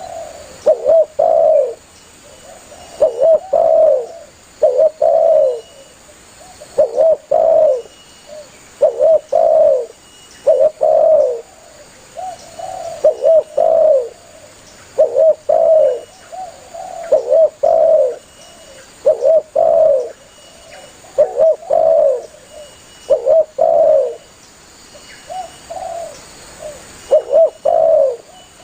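Spotted dove (tekukur) cooing its advertising call: short phrases of two or three mellow coos, repeated roughly every one to two seconds, steady and tireless.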